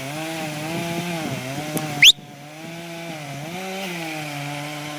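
Two-stroke chainsaw engine running at part throttle, its pitch wavering slightly. About two seconds in, a brief loud rising squeak cuts over it, and then the saw's sound briefly drops in level.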